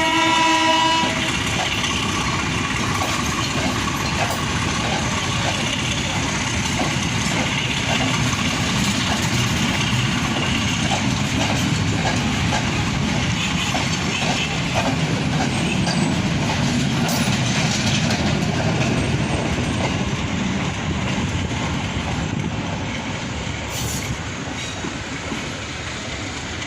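A train horn sounds once, briefly, at the start, then the train runs on with a steady rumble and a regular clickety-clack of wheels over the rail joints.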